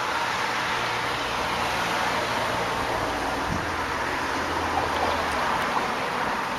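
Steady outdoor background noise of distant road traffic: a continuous hiss with a low engine hum underneath that swells and fades.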